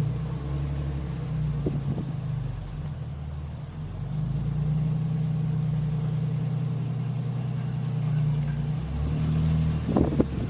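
A road vehicle's engine running steadily with a low drone, the sound of driving along. Near the end, gusts of wind buffet the microphone.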